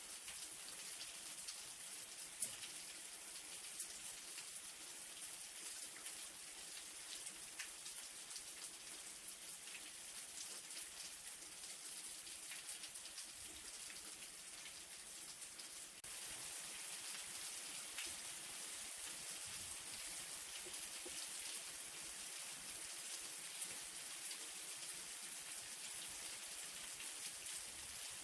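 Light rain falling steadily: a soft hiss with many individual drops ticking on a surface. It gets slightly louder about halfway through.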